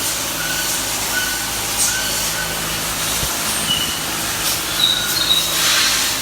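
5.9 Cummins inline-six turbodiesel engine running steadily, with short high squeaks now and then and a swell of hiss near the end.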